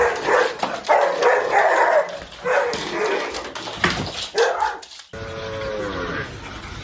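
Dog vocalizing excitedly in short bursts of yips, barks and whines. About five seconds in it cuts to a quieter, drawn-out pitched sound that falls slowly.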